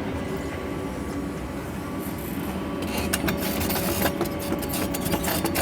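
Sany excavator running steadily, its engine and hydraulics giving a continuous hum with a thin steady whine. From about three seconds in come scraping and many sharp ticks as the machine works the ground.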